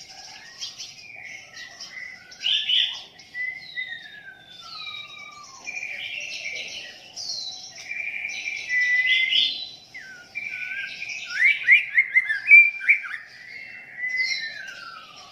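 White-rumped shama (murai batu) singing a long, varied song of clear whistles, long downward-sliding notes and quick runs of notes, loudest about three-quarters of the way through.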